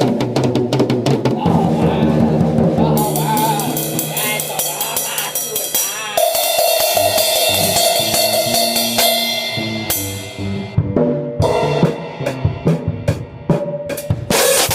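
Drum kit played loudly: fast strokes on the drums with cymbals crashing and ringing in a long wash through the middle, then sparser separate hits near the end.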